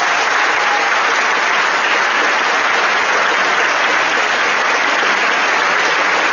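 A large audience applauding, a dense, steady mass of clapping hands that began suddenly a second earlier and holds at an even level.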